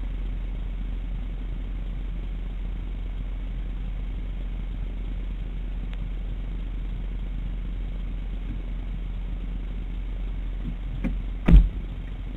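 Mitsubishi ASX engine idling while the car stands still, heard as a steady low rumble inside the cabin. A single loud thump comes near the end.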